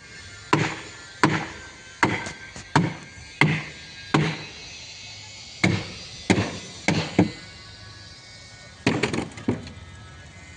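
Irregular hammer blows, about a dozen sharp strikes in small clusters, each with a short ringing decay.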